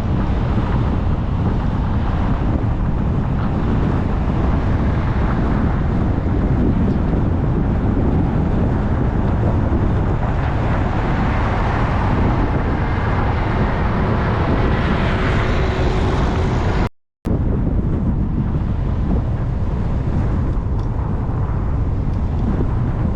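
Steady road and wind noise from a car being driven, picked up by a dash cam. The sound cuts out completely for a fraction of a second about two-thirds of the way through.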